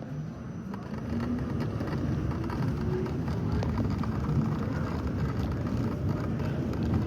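New York City Subway R68 train running, its rumble growing louder about a second in and then holding steady.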